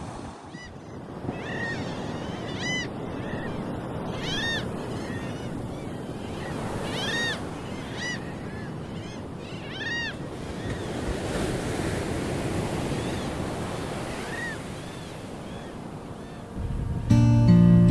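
Sea surf washing steadily onto a beach, with a run of short, high calls heard over it through most of the stretch. Music comes in near the end.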